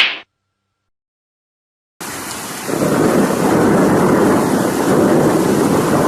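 Thunderstorm sound effect: heavy rain with a deep thunder rumble, starting about two seconds in and getting louder a moment later. A short sharp crack, like a whip, is heard right at the start.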